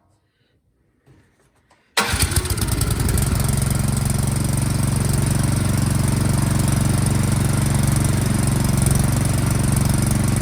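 Troy-Bilt snowblower engine, primed and choked, starting about two seconds in and then running steadily. It runs now that its carburetor has been cleaned: the no-start was a dirty carburetor.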